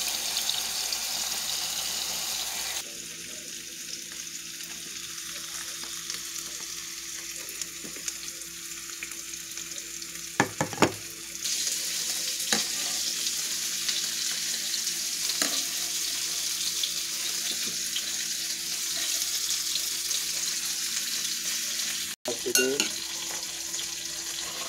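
Steak sizzling in oil in a frying pan, a steady hiss that drops in level a few seconds in and comes back up about halfway through. A few short clicks and knocks sound over it, the loudest about ten seconds in.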